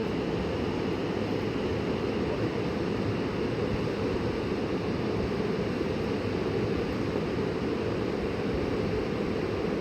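Fast-flowing river water rushing steadily over rocks, a constant even noise with no breaks.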